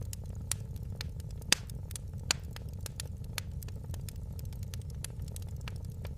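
Wood fire in a fireplace crackling: frequent sharp pops and snaps over a steady low rumble, with the loudest pops about one and a half and two and a half seconds in.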